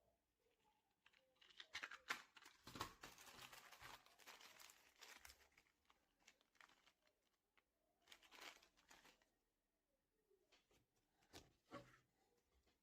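Faint crinkling and rustling of handled material, in a longer stretch early on and a shorter one later, followed by a few light clicks near the end.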